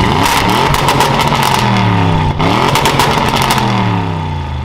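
Audi RS7's twin-turbo V8 revving hard, rising in pitch, with a brief break a little over two seconds in before it pulls again, then easing off near the end.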